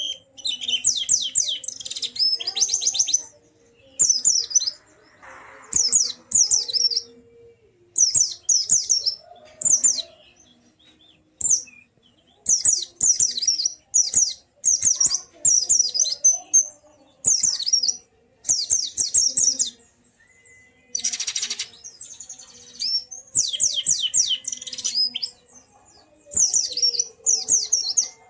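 White-eye (pleci) singing: repeated short bursts of fast, high chirping notes, each about a second long with brief pauses between. About three-quarters of the way through, a short rasping, hissy burst.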